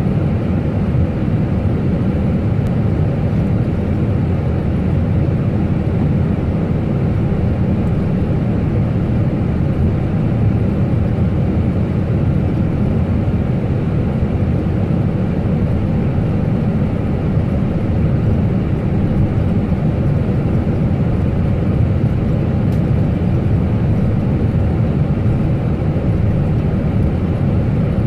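Airliner engine and airflow noise heard inside the cockpit: a steady low rumble that does not change.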